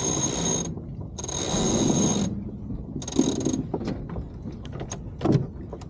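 Sailboat winch ratcheting in three quick bursts as a line is hauled in, each burst a buzzing whirr with a high whine, followed by scattered clicks and a thump.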